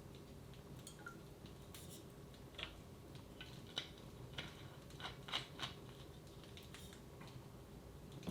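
Wood fire in a fireplace crackling: scattered, irregular sharp pops and snaps over a faint steady hum.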